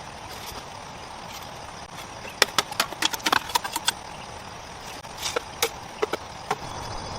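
A quick run of sharp knocks or cracks starting about two and a half seconds in, then a few more scattered ones later, over a steady outdoor hiss.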